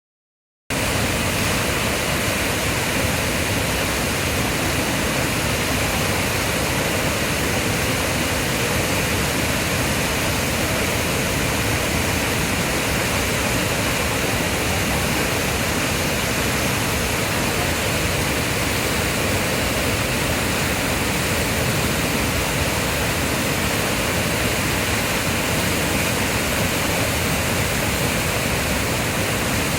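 Waterfall (Fukiwari Falls) rushing, a steady, even roar of falling water with no change in level. It cuts in abruptly just under a second in.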